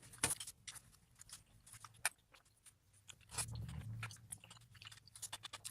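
Close-miked mouth sounds of someone chewing kimchi: soft crunches and wet clicks, with a brief low hum about halfway through.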